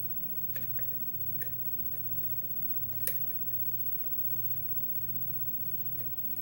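Faint metallic clicks and taps of a lock pick working the pin stack of a challenge lock under light tension, with one sharper click about three seconds in, over a steady low hum. The lock is held in a deep false set while the pins are probed for counter-rotation.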